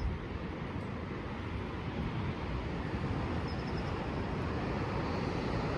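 Steady outdoor rumble with no clear pitch, strongest in the low range. About three and a half seconds in, a small bird gives a faint, high run of about four quick chirps.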